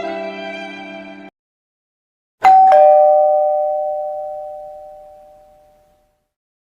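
Sad violin music fades and cuts off about a second in. After a short silence comes a two-note ding-dong chime, a higher note then a lower one, ringing out for about three seconds.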